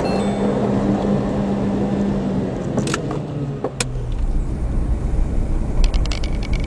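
Car driving: steady engine and road noise, with a low hum over the first couple of seconds and two sharp clicks around three seconds in.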